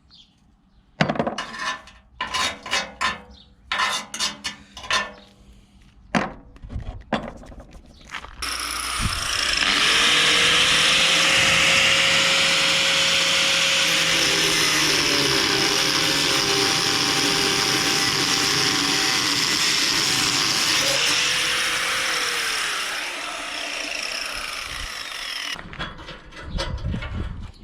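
Hand-tool clicks and knocks, then about eight seconds in a power tool starts and runs steadily for about seventeen seconds with a loud hiss before winding down, during work on a car's bumpers.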